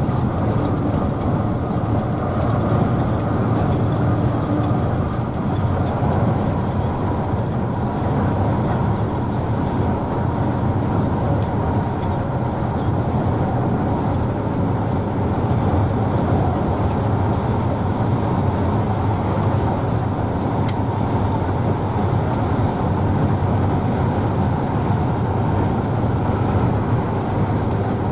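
Steady running noise of a Mercedes-Benz OH1113 bus on the move, its engine and the road noise mixed into one even rumble.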